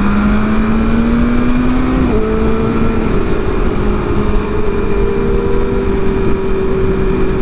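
Inline-four sport bike engine pulling under throttle with rising revs. It shifts up about two seconds in, then runs steadily at a constant speed under heavy wind rush.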